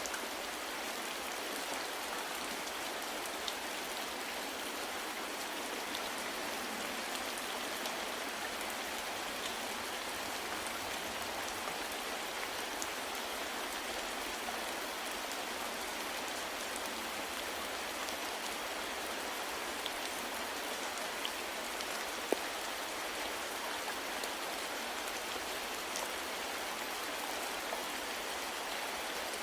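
Steady rain falling on a surface, an even hiss with scattered individual drop ticks and one slightly louder drip about 22 seconds in.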